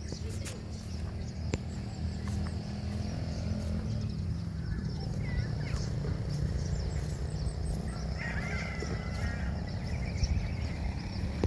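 Birds chirping now and then, with a cluster of chirps about eight seconds in, over a steady low rumble.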